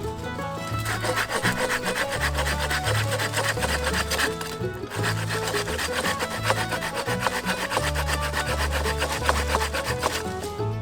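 Hand saw cutting through wood in quick, even strokes, with a short break about halfway through, over background music with a bass line.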